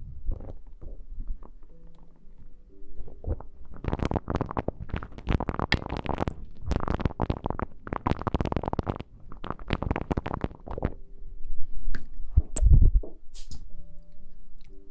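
Close-miked ASMR rustling and scratching right at the microphone: dense crackling from about four seconds in until about eleven seconds, then a heavy low thump near the end. Faint background music with held tones sits underneath at the start and end.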